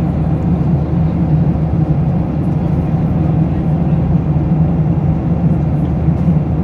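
Steady cabin drone of a Boeing 737-800 at cruise: the hum of its CFM56-7B engines and airflow noise heard inside the passenger cabin, a deep even rumble that does not change.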